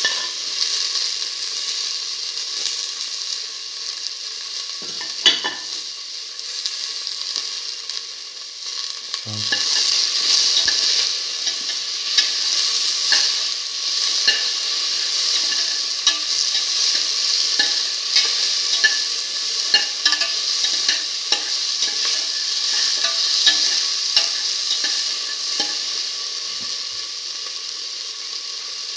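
Shallots, garlic and tomato pieces sizzling in hot oil in a stainless steel pan, with frequent small clicks and scrapes as the food is stirred and two soft knocks in the first third.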